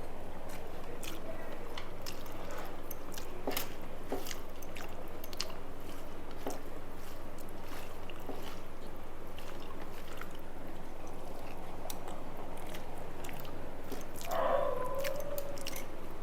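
Close-up eating sounds: wet chewing of rice and fried food, with scattered sharp crunches and mouth clicks. Near the end a short voice-like hum.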